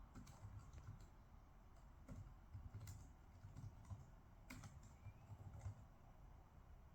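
Faint, irregular clicks and taps from someone working at a desk, spaced unevenly over a low room hum.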